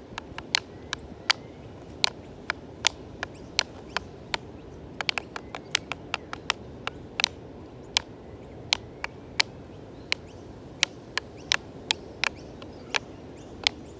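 Wooden sticks being struck together as percussion, giving sharp clacks: a steady beat with quicker, irregular improvised taps in between.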